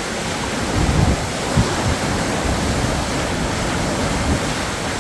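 High water pouring over a river dam spillway gate: a steady, loud rush of crashing water, with low buffeting on the microphone about a second in.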